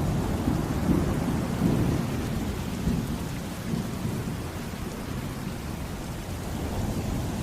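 Thunder rolling over steady heavy rain. The low rumble swells over the first couple of seconds, then eases back while the rain carries on.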